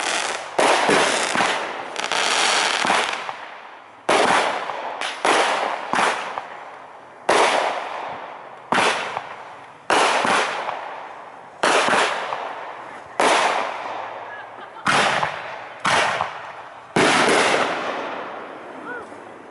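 Aerial firework shells bursting one after another: about fourteen loud bangs, one to two seconds apart, each trailing off in a long echoing decay before the next.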